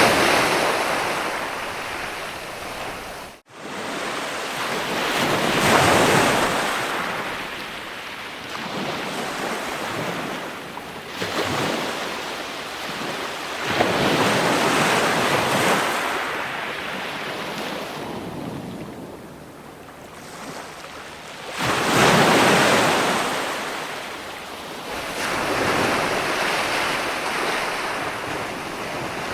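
Ocean surf: waves breaking one after another, each a rushing surge every six to eight seconds that fades into a softer wash. The sound cuts out for an instant about three and a half seconds in.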